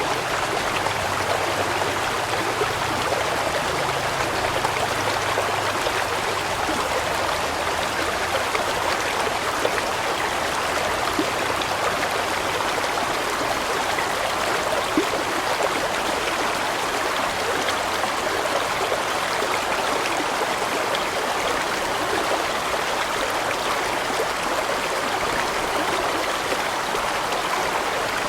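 Large stream flowing over rocks: a steady rushing and splashing of water.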